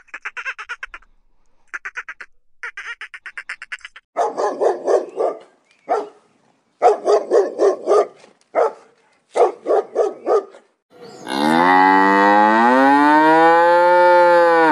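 A cow mooing once, a long loud moo in the last four seconds that rises and then falls in pitch. Before it, a dog gives a series of short loud barks, and at the start there is a run of rapid pulsed animal calls.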